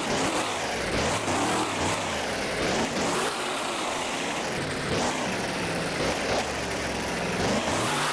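Monster truck engine revving hard, its pitch climbing and falling again and again, over a loud steady hiss.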